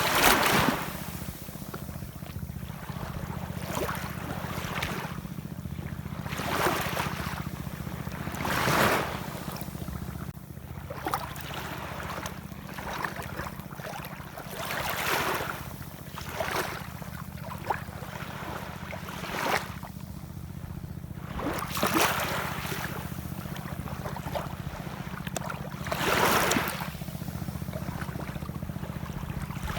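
Ocean waves washing in, a surge of surf every few seconds, over a steady low rumble.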